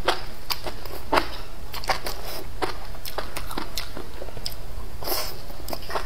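A person chewing a mouthful of enoki mushrooms close to a clip-on microphone: irregular wet mouth clicks and smacks, several a second.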